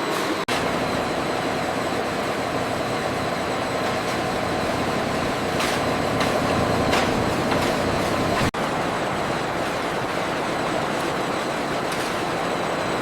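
Steady mechanical rumble and hiss, like engines or heavy machinery running, cutting out for an instant twice.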